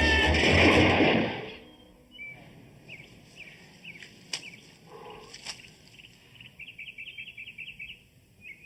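A music cue ends in the first second and a half. Small birds then chirp and trill in short calls, with a faster run of chirps near the end, and two sharp clicks fall in the middle.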